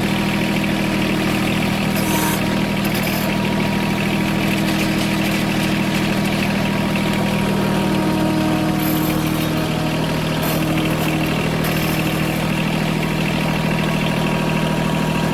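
John Deere 1023 compact tractor's three-cylinder diesel engine running steadily at a constant speed.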